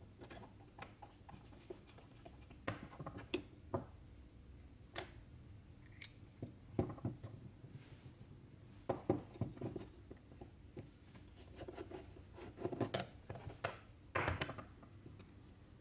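Small metal carburetor parts and hand tools clicking, tapping and scraping at irregular intervals as a Yanmar RM82U gasoline engine's carburetor is handled and worked on, with a few louder clatters in the middle and near the end.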